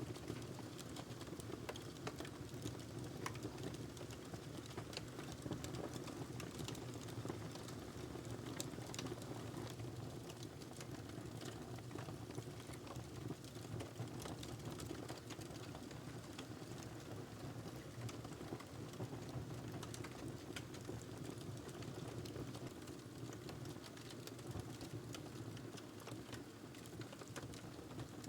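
Wood fire burning in a fireplace, crackling with many small irregular pops and snaps over a steady low rush of flame.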